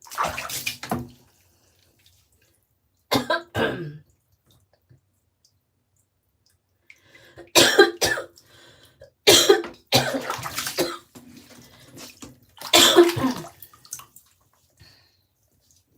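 Coughing in five short fits spread over several seconds, a couple of them two quick coughs close together.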